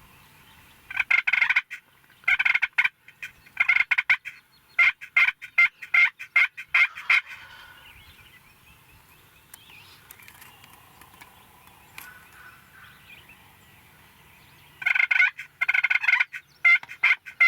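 Wild turkey gobbling over and over: a run of loud, rattling gobbles from about a second in to about seven seconds, a quieter stretch, then another run near the end.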